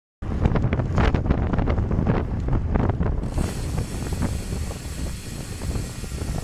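Wind rumbling and buffeting on the microphone of a camera on a road bike at speed. It starts abruptly, and a steadier hiss joins about three seconds in.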